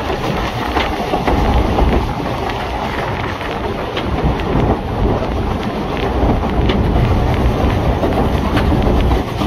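Narrow-gauge train running along the line, heard from on board: a steady rumble and rush with a few sharp clicks.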